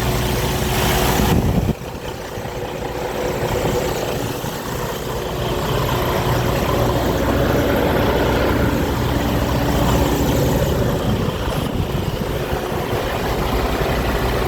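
Semi truck's diesel engine idling steadily. About two seconds in the sound drops suddenly and turns duller, then carries on at an even idle.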